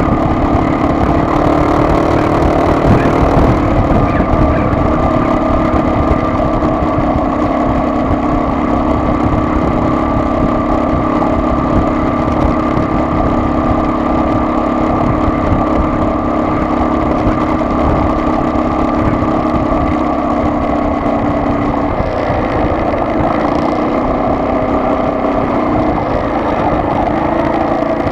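A vehicle's engine running steadily while driving, a continuous drone over road rumble, its pitch shifting about three-quarters of the way through.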